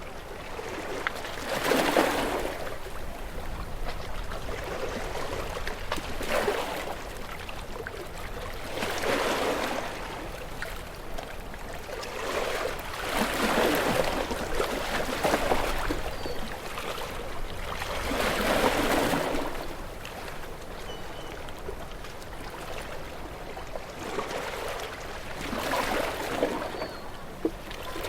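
Ocean waves breaking and washing in, a rushing swell of surf every few seconds that rises and falls away, over a steady wash of water.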